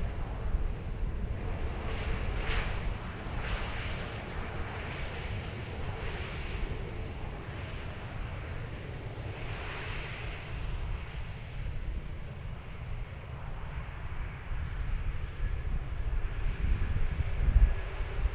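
Jet airliner engines running with a steady rush that swells twice, over gusty wind rumble on the microphone.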